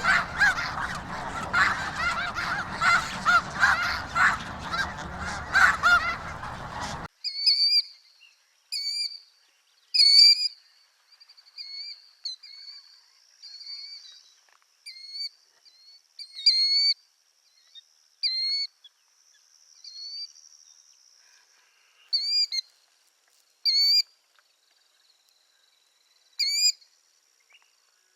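A large flock of geese honking and calling all at once, cutting off suddenly about seven seconds in. After it comes a single bird's short, clear, rising call, repeated every second or two, with a faint high buzzy trill in between.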